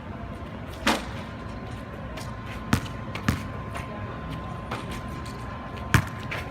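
Basketball bouncing on a wet outdoor court: four separate sharp bounces, spaced irregularly, over a steady background hiss.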